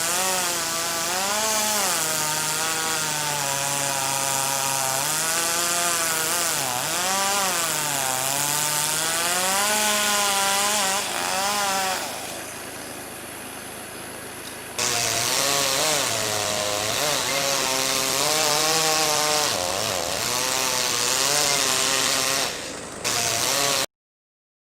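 Two-stroke chainsaw running and cutting, its engine pitch rising and sagging as it works. It drops away about twelve seconds in; about three seconds later a chainsaw starts again and runs until a sudden cutout near the end.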